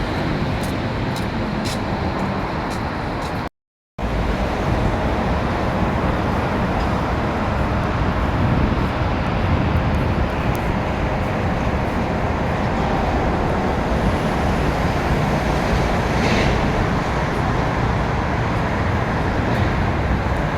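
Steady outdoor background noise, loudest low down, with a brief dropout about four seconds in where the recording cuts.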